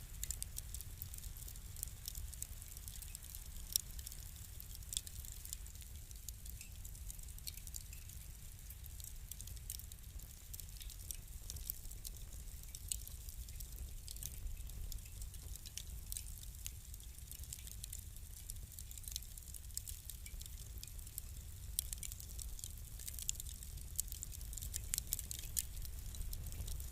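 Fire crackling: frequent sharp snaps and pops at irregular intervals over a low steady rumble, the pops coming a little thicker near the end.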